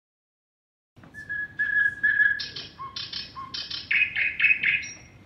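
Bird-like whistling: a held whistled note, then a quick run of short chirps and tweets.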